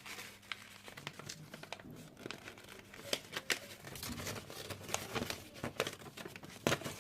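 A sheet of paper being folded and creased by hand: irregular crinkles and crackles, with a sharper crackle near the end.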